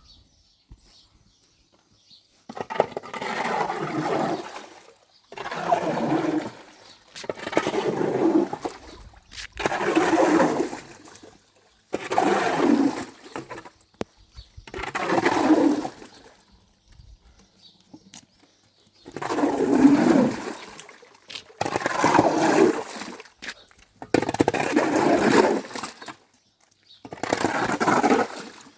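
Rushing, splashing water in about ten bursts of a couple of seconds each, with short pauses between them.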